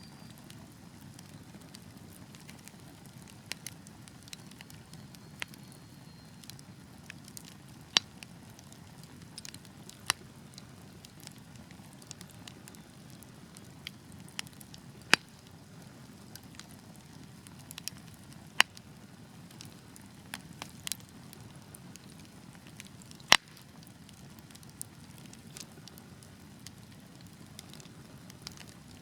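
Wood fire burning: a soft steady low rumble of flames with irregular sharp crackles and pops from the logs, several of them loud and the loudest about two-thirds of the way through.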